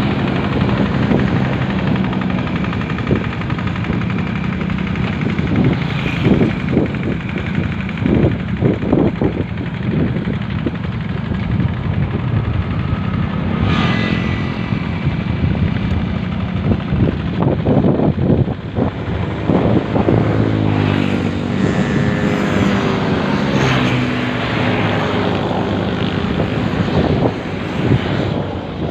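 An engine running throughout, its pitch wavering up and down.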